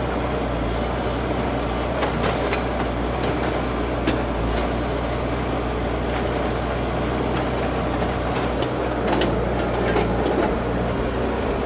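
Digger's diesel engine running steadily with a low rumble, with scattered short metallic clicks and clanks.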